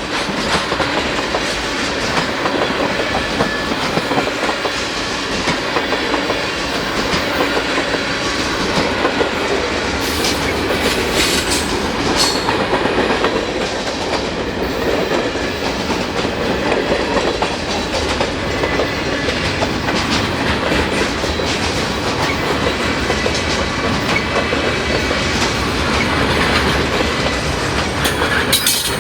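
CN freight train rolling past at close range: a steady, loud rumble of freight cars and wheels on the rail, with repeated wheel clicks and clacks throughout.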